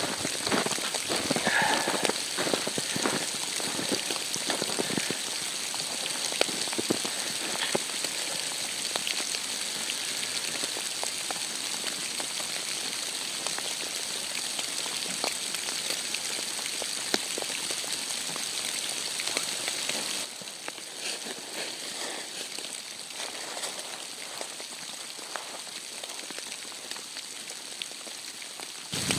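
Steady patter of precipitation hitting a surface, thick with small ticks, dropping a step quieter about twenty seconds in.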